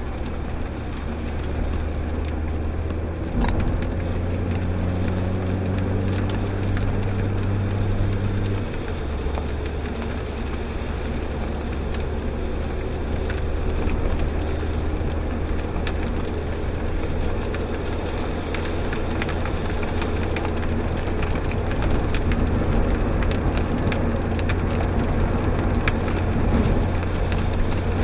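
Mazda MX-5's 1.8-litre four-cylinder engine running at a steady cruise, heard from inside the cabin, with the hiss of tyres on a wet road and rain. The engine note drops about nine seconds in, at a gear change.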